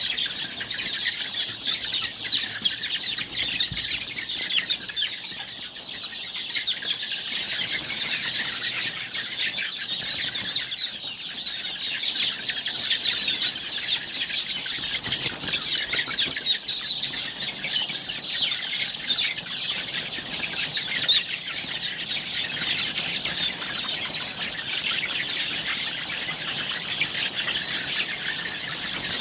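A large flock of BV300 layer chickens calling: a dense, continuous chatter of many short, high-pitched calls from many birds at once.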